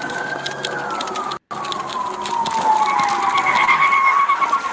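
Police sirens wailing in slow rises and falls of pitch, with a second siren's fast warbling tone joining about three seconds in. The sound drops out for an instant about a second and a half in.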